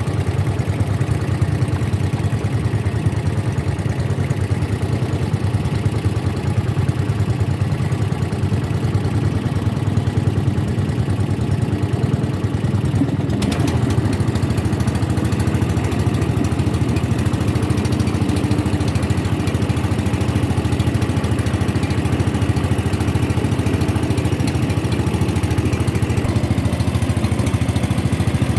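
Boat engine running steadily at a constant pace, a low hum that does not rise or fall, with a slight shift in its sound about halfway through.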